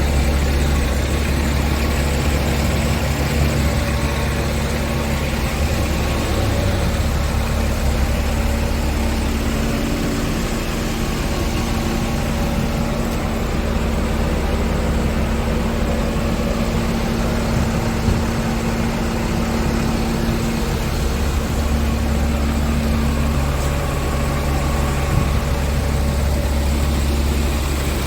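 Scania R tractor unit's diesel engine idling steadily with a deep hum.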